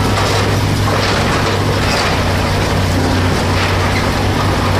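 Heavy construction machine's diesel engine running steadily at a constant speed, a loud low drone with no clear impacts.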